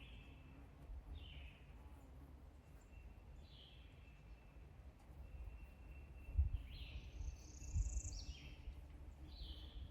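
Songbirds calling outdoors: short chirps every second or two, and a longer, more complex call about two-thirds of the way in. A low, uneven rumble sits under them, with a couple of thumps near the loudest call.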